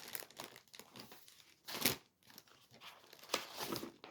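Plastic packaging of a cross stitch kit crinkling and rustling as it is handled, in irregular bursts with a louder crackle near the middle.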